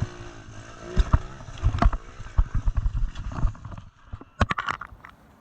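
Pit bike engine running with its pitch sliding up and down, under a string of sharp knocks and thumps. It fades off after about four seconds, leaving a few sharp clicks.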